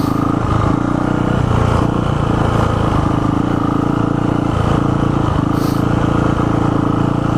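Small single-cylinder four-stroke engine of a kids' Yamaha TT-R110 dirt bike running steadily under light, even throttle.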